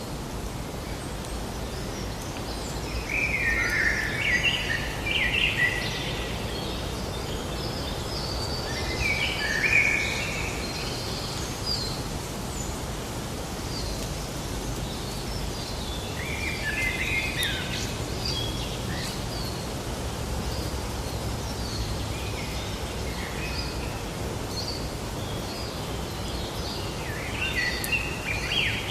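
Songbirds chirping in short runs of quick calls, coming in four or so spells, over steady low outdoor background noise.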